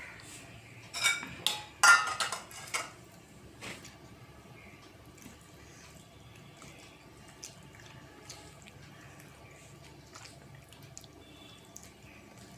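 Wet eating sounds of rice being mixed with thin fish curry on a plate, with a cluster of loud squelches and clinks about one to three seconds in. After that, only faint scattered ticks.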